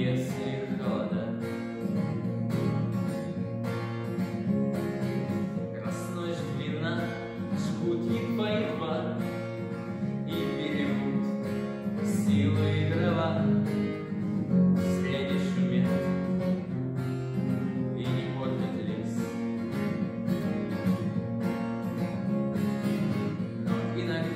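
Instrumental passage of a song: acoustic guitar strumming with a steady beat under a melody line.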